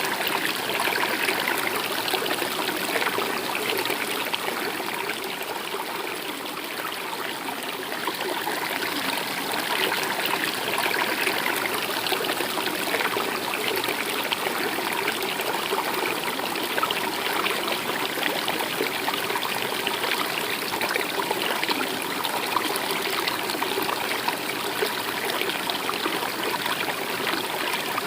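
A stream of water running steadily, a continuous trickling rush with no break.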